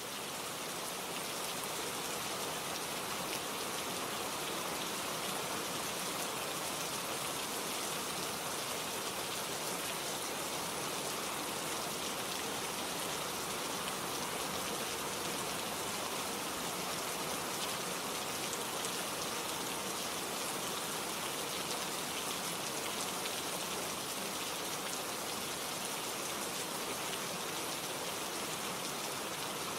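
Steady rain: a dense, even hiss of countless drops, fading up over the first second or two and then holding level.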